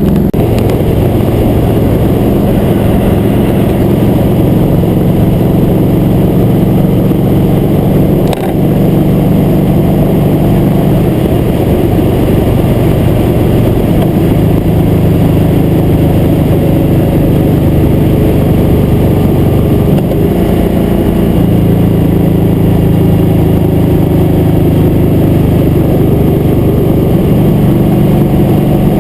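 Motorcycle engine running at road speed, its pitch shifting a few times as the speed and throttle change. A short sharp click about eight seconds in.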